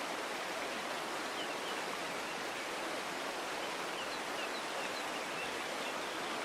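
Forest stream running steadily, with faint short, high bird chirps over the water from about a second and a half in until near the end.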